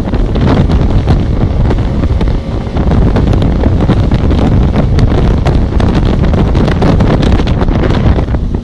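Loud wind buffeting the microphone, with the rushing noise of a motorboat under way underneath.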